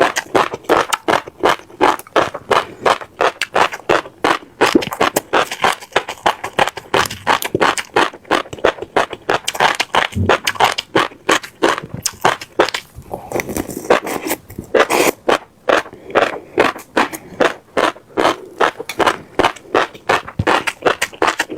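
Close-miked chewing of crunchy seeds, a rapid run of crisp crunches and crackles several times a second.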